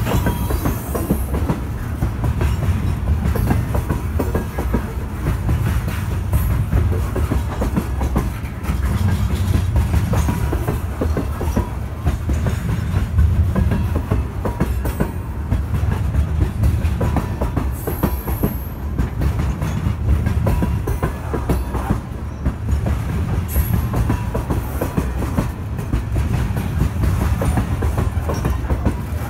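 Norfolk Southern coal train's hopper cars rolling past in a steady rumble, the wheels clacking over rail joints, with a couple of brief high wheel squeals.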